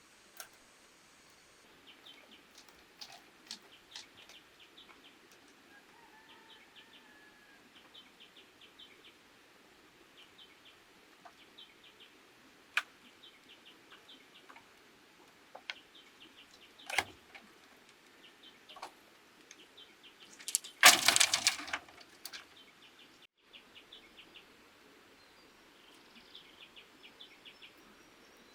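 Outdoor rural ambience: short chirps repeating in quick trains, with scattered sharp knocks and one louder, noisy clatter lasting about a second roughly two-thirds of the way through.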